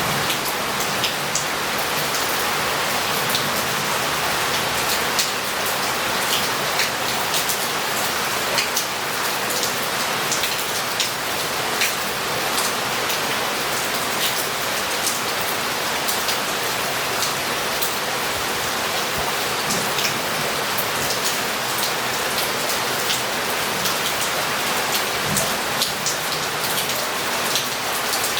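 Heavy rain falling steadily on roof tiles and street paving, a constant hiss with many close, sharp drop splats scattered through it.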